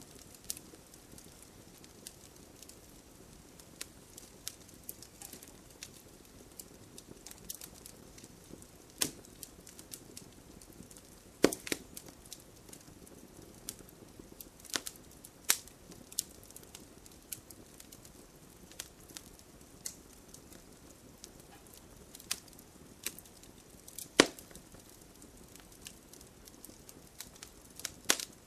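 Wood fire crackling: a low, steady hiss with irregular sharp pops and snaps, the loudest three about 11, 15 and 24 seconds in.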